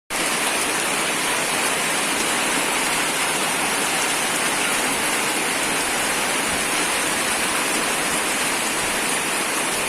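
Steady rain falling: an even, unbroken hiss with no separate drops or knocks standing out.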